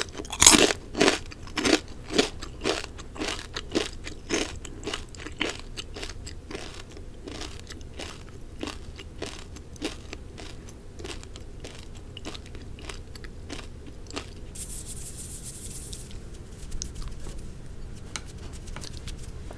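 Close-miked chewing of food with crisp crunches, about two a second, loudest at first and fading as the chewing goes on. A brief high hiss comes about 15 seconds in.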